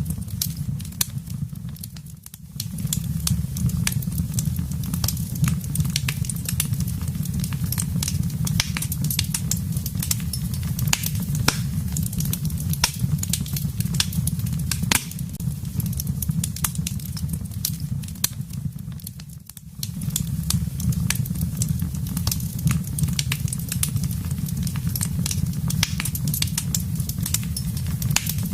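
Wood fire burning in a fireplace: dense, irregular crackles and pops over a steady low rumble of the flames. The rumble briefly dips out twice, about two seconds in and again past the middle.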